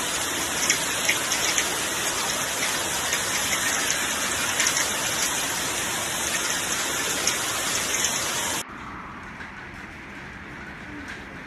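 Heavy rain falling steadily, with scattered sharp ticks of drops striking. About three-quarters of the way through it cuts off abruptly to a quieter, duller rush.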